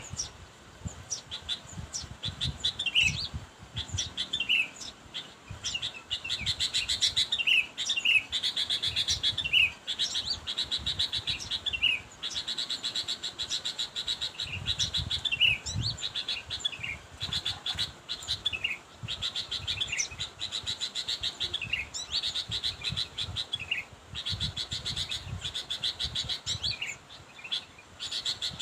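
Sooty-headed bulbul calling to challenge a rival: repeated short downward-sliding whistled notes mixed with stretches of rapid, buzzy chatter, with irregular low thumping noise underneath.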